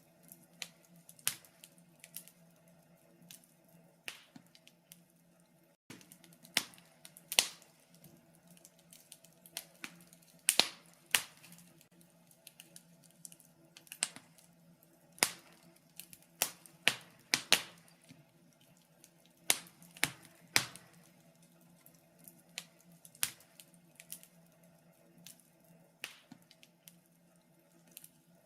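Wood fire crackling in a fireplace: irregular sharp pops and snaps, about one or two a second, busier in the middle.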